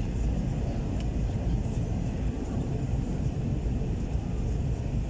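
Steady low roar of an Airbus A321-231 airliner, engine and airflow noise with no change in pitch or level.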